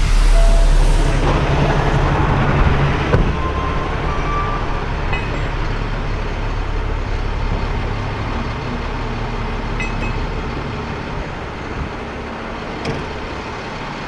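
Heavy tow truck's diesel engine running, louder for the first three seconds with a hiss of air near the start, then settling to a steady idle.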